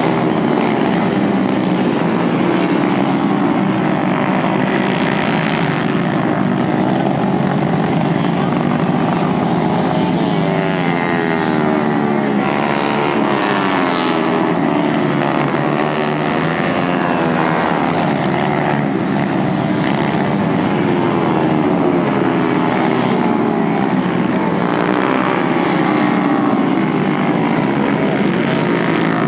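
Several 110 cc racing motorcycles at high revs, their engine notes overlapping and rising and falling as they accelerate, shift and pass.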